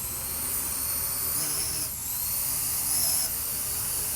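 Parrot AR.Drone 2.0 quadcopter's electric motors and propellers whining at a high pitch in flight, with the pitch shifting briefly twice as the drone's speed changes.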